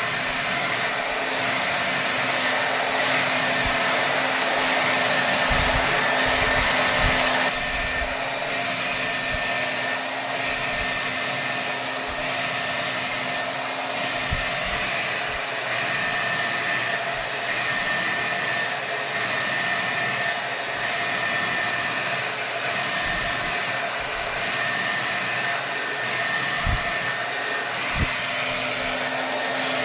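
Hair dryer blowing steadily at full power, a continuous dense rush of air with a faint hum under it. About seven seconds in its sound shifts and grows slightly quieter. A few soft low bumps come through now and then.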